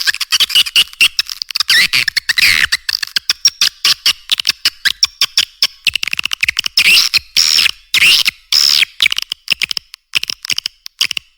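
Swiftlet lure track: edible-nest swiftlets twittering in rapid chirps and clicks, with trilling calls that rise and fall, and a few louder falling calls past the middle.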